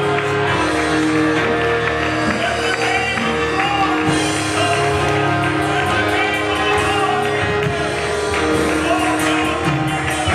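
Church worship music: a band playing held chords with voices singing.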